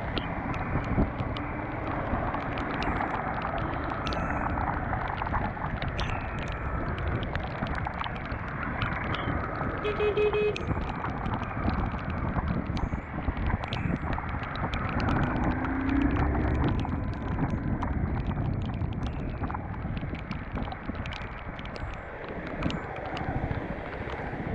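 Wind rushing over the camera microphone with the Honda CBR250R's single-cylinder engine running underneath at road speed in the rain, dotted with frequent sharp ticks. A brief tone sounds about ten seconds in.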